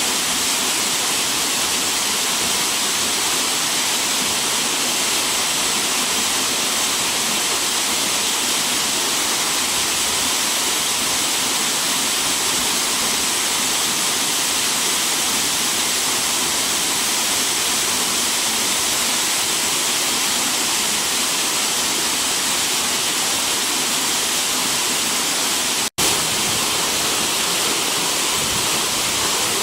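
Waterfall: the steady, loud rush of water falling and splashing, with a split-second break in the sound near the end.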